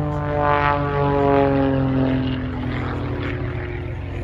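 Jet Pitts aerobatic biplane, with a Lycoming piston engine, flying past. Its engine note drops in pitch as it goes by, from about half a second to two and a half seconds in.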